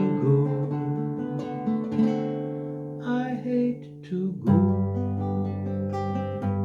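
Acoustic guitar playing the instrumental ending of a folk song, chords ringing on, with a fresh strummed chord about two-thirds of the way through.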